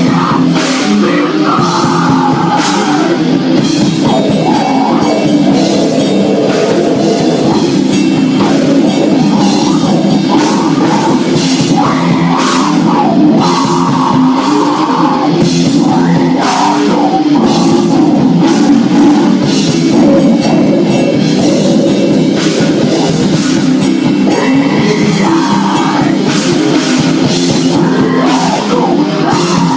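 Heavy rock band playing live at full volume: a drum kit with frequent cymbal hits under loud, dense instruments.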